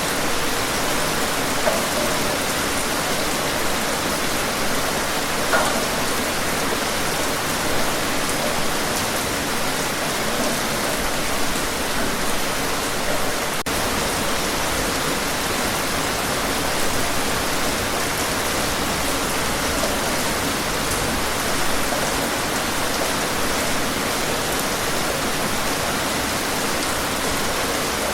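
Heavy rain falling in a steady, dense hiss, with no thunder heard.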